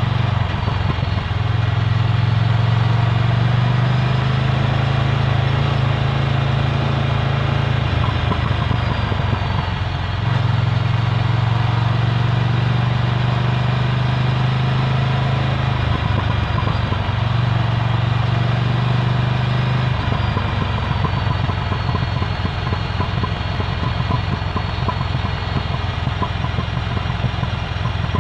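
Ducati Scrambler Full Throttle's L-twin engine running through a Termignoni exhaust. It keeps a steady, deep note that changes in pitch a few times along the way.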